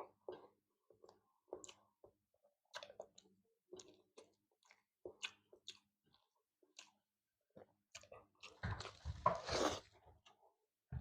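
Close-miked chewing: a person eating with wet smacks and small crunches at an uneven pace, with a louder, busier stretch of chewing near the end.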